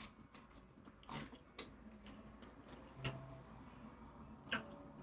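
Quiet mouth sounds of eating: a handful of short, separate smacks and clicks from chewing, a second or more apart.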